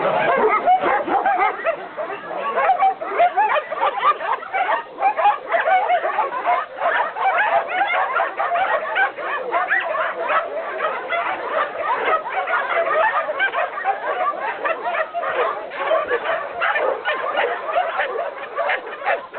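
Many dogs barking and yipping at once, overlapping without pause.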